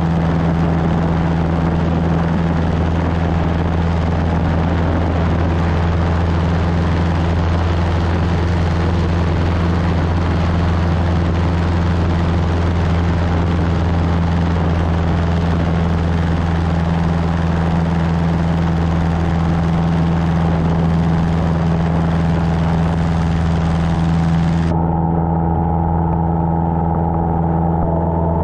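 Cessna 150's Continental O-200 four-cylinder engine droning steadily at cruise, heard inside the cabin. About 25 seconds in, the hiss in the upper part of the sound cuts off suddenly, leaving the low engine drone and a few steady hums.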